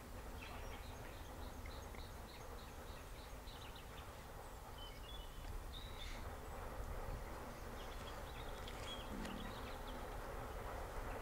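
Small birds singing in woodland: a quick run of about eight short repeated chirps about a second in, then scattered high calls, over a steady low outdoor rumble.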